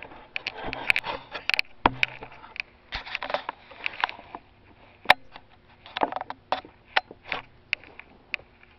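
Close rustling and handling noise, an irregular run of clicks, scrapes and knocks, with one sharp click about five seconds in.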